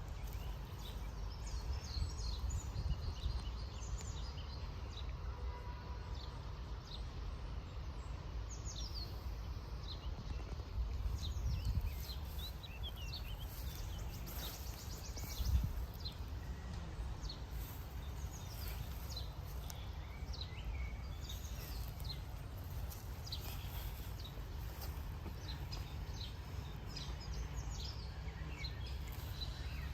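Small birds chirping and singing on and off, over a steady low rumble of wind on the microphone, with one brief thump about halfway through.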